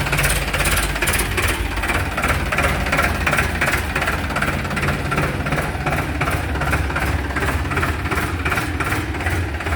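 Diesel tractor engine running steadily at idle, with an even, rhythmic knocking clatter over a low hum.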